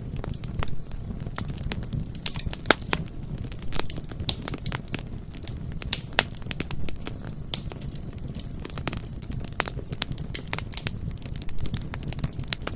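Bonfire burning, its wood crackling and popping in sharp, irregular snaps over a steady low rumble.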